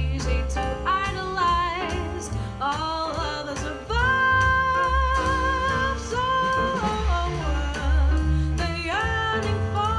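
Swing jazz from a recording: upright bass and brushed or ridden drum cymbals keep time under a melodic lead line with long held notes that bend into pitch.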